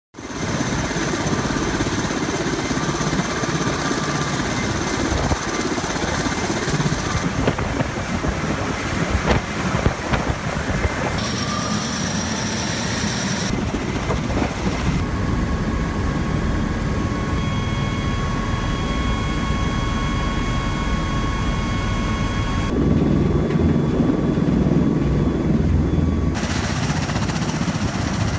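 Osprey tilt-rotor aircraft's engines and rotors running: a loud, steady mechanical noise with a thin whine over it, changing abruptly several times.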